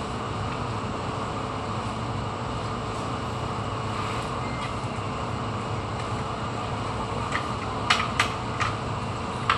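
A steady machine hum and noise, with a handful of sharp clicks or taps near the end.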